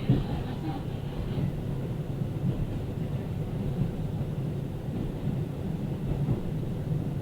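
Local diesel railcar running between stations, heard from inside: a steady low rumble of engine and wheels on the rails, with one sharp knock right at the start.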